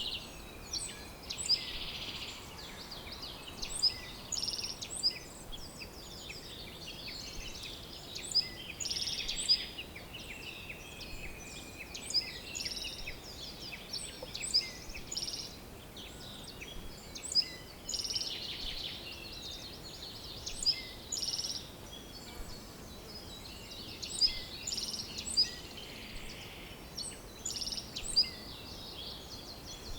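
Several songbirds chirping and singing, with many short high chirps and an occasional brief trill, over a faint steady background hiss.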